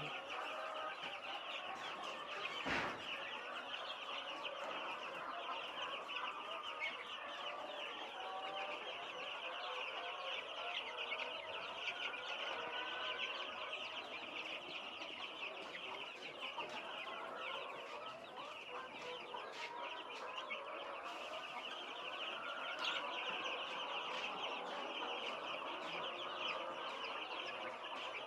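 A flock of twelve-day-old broiler chicks peeping non-stop in a dense chorus of high chirps, with one sharp knock about three seconds in.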